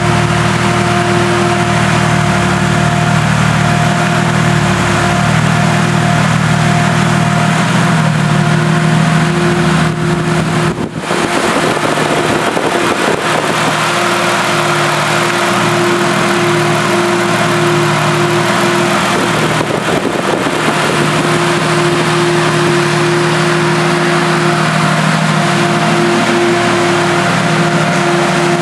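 Nissan RB25DET turbocharged straight-six running steadily after a rebuild, making the ticking noise its owner is asking about. The level dips briefly about eleven seconds in.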